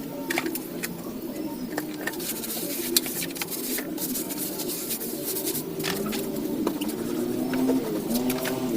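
Pigeons or doves cooing in low, wavering calls, with scattered sharp clicks and knocks from scrubbing the motorbike.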